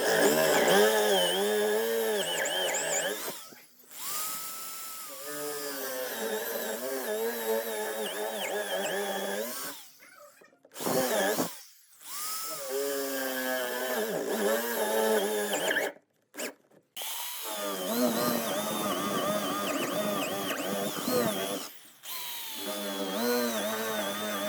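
Handheld electric power tool running in several bursts of a few seconds each, with short stops between them; its motor pitch wavers and dips as it works under load.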